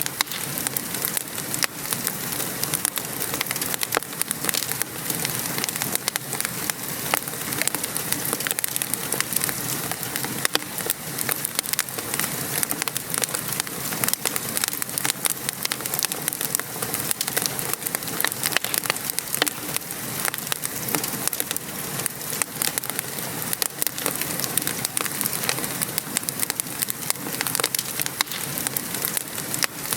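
Steady rain pattering mixed with a wood fire crackling, with frequent sharp pops and snaps.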